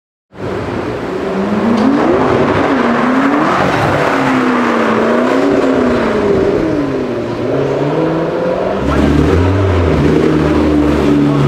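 McLaren MP4-12C's twin-turbo V8 being revved repeatedly, its pitch rising and falling with each rev. It starts abruptly, and about nine seconds in it gives way to a steadier, deeper note.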